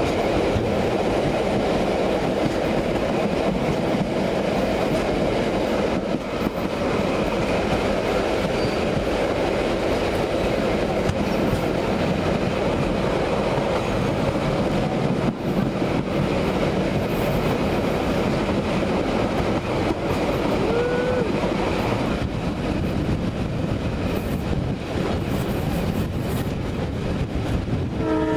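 Southerner passenger train running at speed, a steady rumble of wheels on the rails with clickety-clack, heard from a carriage window. A horn starts sounding right at the end.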